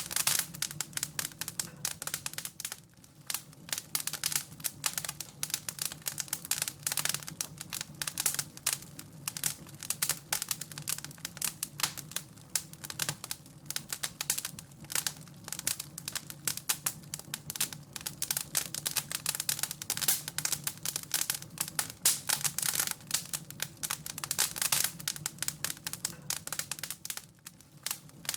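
Wood fire crackling and popping, dense irregular snaps over a low steady roar of the flames.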